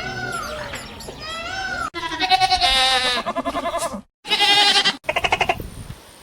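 Bird chirps for about two seconds, then goats bleating after an abrupt cut: one long wavering bleat, a shorter one after a brief gap, and a quick stuttering bleat near the end.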